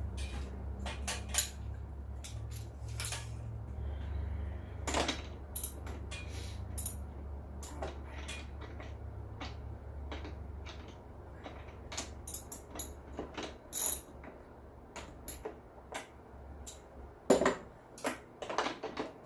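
Metal tools clinking and clicking as sockets and a wrench are handled and fitted onto a leaf blower's spark plug to remove it. A low steady hum underneath fades out a little past the middle.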